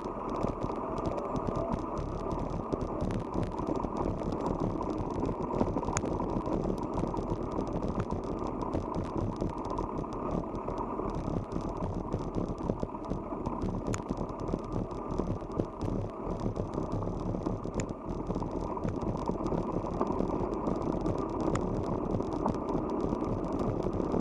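Bicycle rolling over a rough forest road: steady tyre rumble with continual fine rattling.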